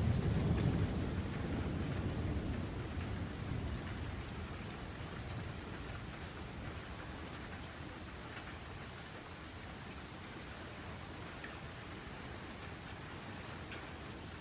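Thunder rumbling at the start and dying away over the first several seconds, over steady rain falling hard.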